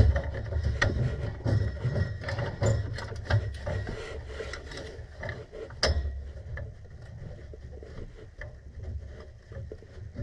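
Irregular metallic clicks, taps and scrapes as a gas-pipe union and its fittings are worked by hand and the union will not thread on. One sharper click comes about six seconds in.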